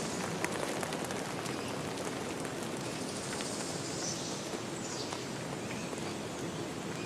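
Steady rush of flowing river water, with a few short, high bird chirps over it.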